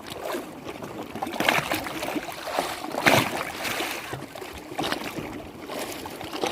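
Lake water lapping and splashing irregularly, with louder splashes about one and a half seconds in and again about three seconds in.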